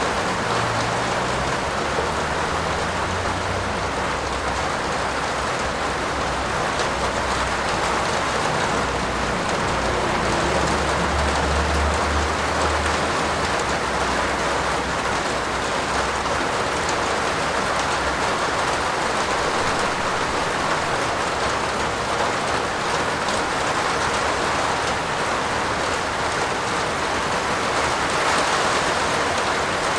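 Heavy rain falling steadily on a roof, a dense even hiss of drops. A low rumble swells briefly about ten seconds in.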